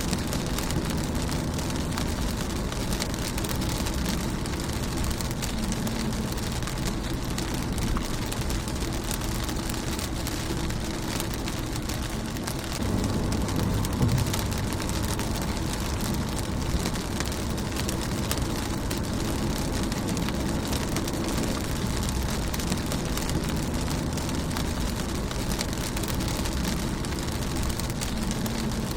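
Steady rain falling on a car's windshield: a dense patter of small drop ticks over a low rumble, swelling slightly about halfway through.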